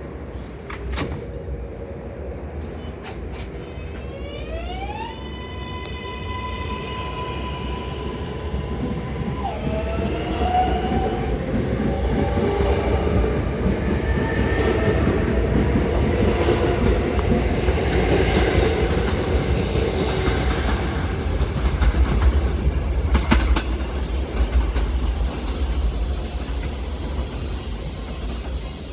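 L subway train pulling away: the electric propulsion whines up in pitch, holds one steady tone for a few seconds, then drops. Wheel and motor noise then grows louder as the train gathers speed, with a few sharp clicks.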